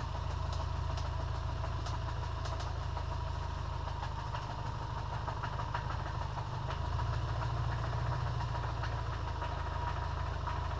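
Subaru EJ25 2.5-litre flat-four engine idling steadily with a knock, which the owner places in the crankshaft: a sign of a failing rod bearing.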